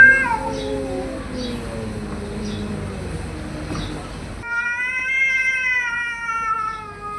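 Cats yowling at each other in a standoff. A long high yowl fades out about a second in, followed by a lower, rougher moan that sinks in pitch. After an abrupt cut, another long high yowl is held and then slides down near the end.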